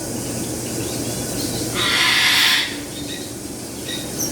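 A parrot gives one harsh screech of almost a second, about two seconds in, over faint chirps and calls from other birds.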